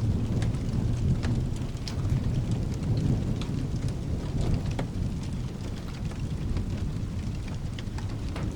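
Rolling thunder rumbling low over steady rain, heaviest in the first few seconds and then easing off. Scattered sharp pops and crackles of a wood fire run throughout.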